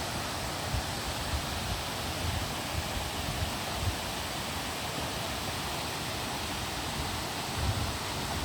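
Steady rushing of a waterfall, with scattered short low thumps, a cluster of them near the end.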